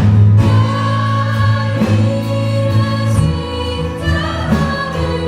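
Church praise team singing a Korean worship song with band accompaniment, the voices holding long notes over a steady bass and drums.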